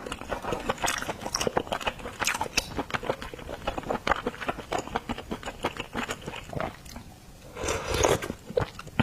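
Close-miked eating: rapid moist clicks of biting and chewing food. They thin out about seven seconds in, with a brief louder burst of chewing near the end.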